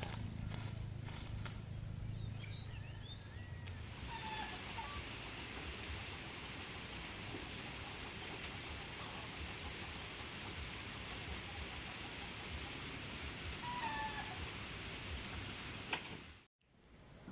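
Insect calling in one loud, steady high-pitched buzz that starts about four seconds in and cuts off abruptly near the end, with a few faint bird chirps.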